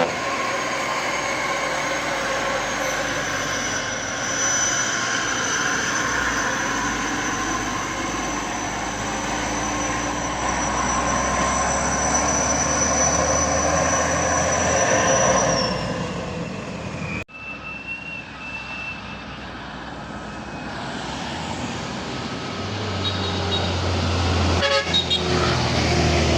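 Truck and road traffic noise with horn sounds and steady tones for about the first 16 seconds. The sound cuts off abruptly about 17 seconds in, then comes back quieter. A heavy engine's low running comes in near the end.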